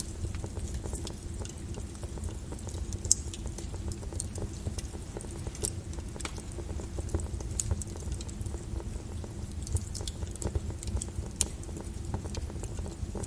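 Wood fire crackling in a fireplace, with irregular sharp pops, one louder about three seconds in, over the steady hiss of rain.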